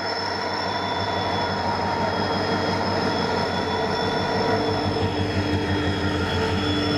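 Train running on the rails: a steady low rumble with several high squealing tones held over it, the sound of wheels squealing on the track.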